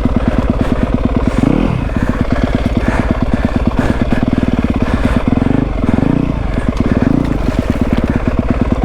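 Yamaha WR250F dirt bike's single-cylinder four-stroke engine running at low speed, blipped up and back down about a second and a half in and again a few times between about five and seven seconds.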